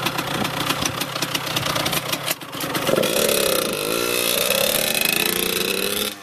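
Dirt bike engine running with a rapid, uneven idle, then revving up about three seconds in as the bike pulls away, its pitch dipping and then climbing again. The sound cuts off abruptly at the very end.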